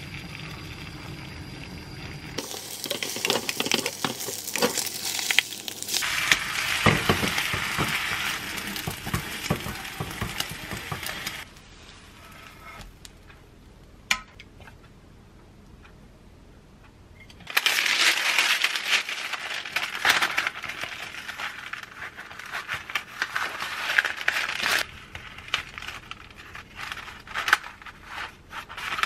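Egg and shredded cabbage sizzling in a square frying pan, with a metal whisk scraping and clicking against the pan. Later comes a loud, crackly crinkling of parchment paper as it is handled and folded.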